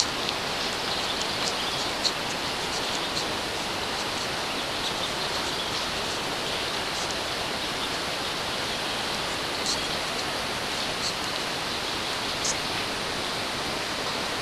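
Steady rushing water, an even noise with scattered small sharp ticks and splashes on top.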